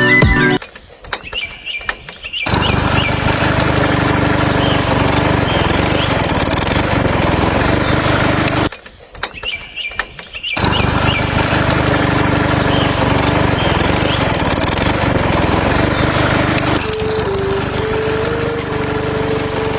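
Small electric motor of a DIY mini tractor and water pump running with a steady buzzing whir. It cuts out for about two seconds midway, then starts up again.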